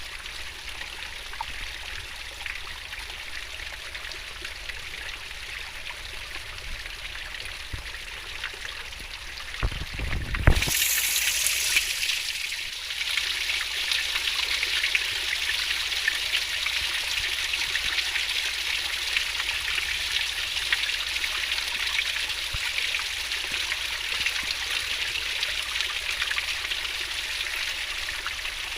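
Fast-flowing river water rushing and splashing in a steady babble. About ten seconds in there is a brief low thump, and from then on the water is louder.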